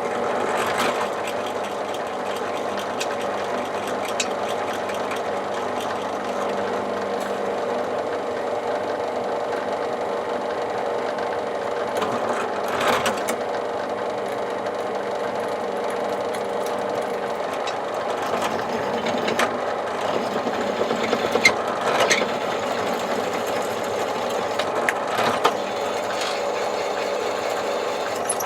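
Electric drill running steadily under load, drilling out one side of a pin that has been peened over like a rivet, with a few sharp ticks from the bit along the way.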